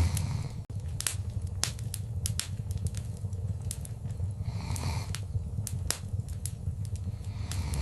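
Wood fire crackling in a fireplace: frequent sharp pops and snaps over a steady low rumble of the flames, with a soft hissing swell about five seconds in.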